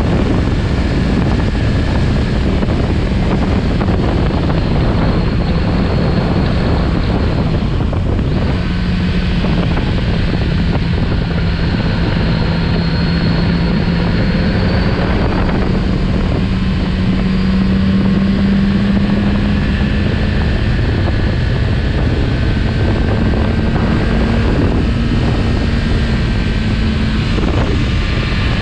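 Kawasaki Z900RS Cafe's inline-four engine running at road speed, its tone rising and falling with the throttle through the curves, with a few brief dips in pitch. Wind noise rushes over the microphone throughout.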